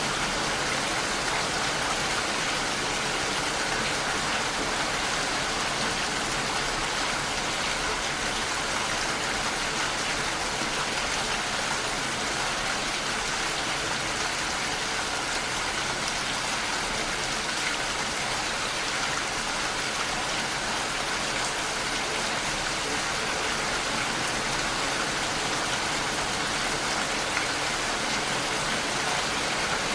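Steady rain falling and pattering against a window pane, an even hiss with no let-up.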